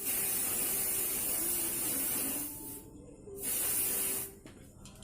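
Spray can hissing in two bursts: a long one that stops about two and a half seconds in, then a shorter one of about a second.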